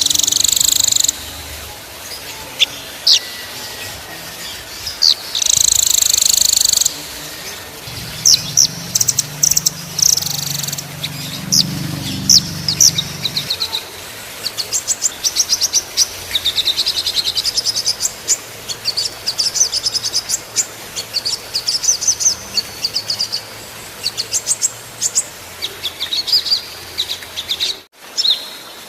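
Small songbirds singing: sharp high chirps and whistles, a few harsh buzzy calls in the first seconds, then long runs of fast, tightly repeated notes in rattling trills. A brief break near the end where the recording is cut.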